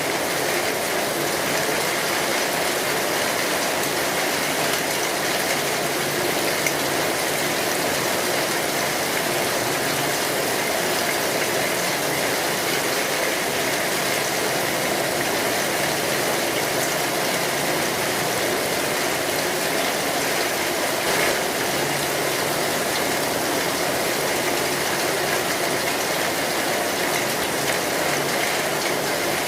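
Steady rain drumming on a metal roof, a dense, even patter that holds at one level throughout.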